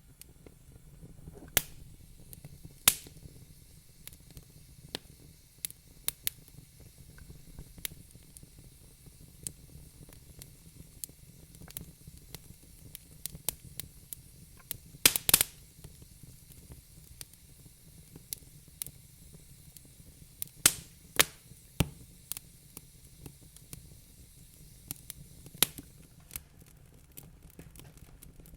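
Wood fire in a fireplace crackling: irregular sharp pops and snaps over a low steady rumble and faint hiss, with a quick cluster of loud pops about halfway through.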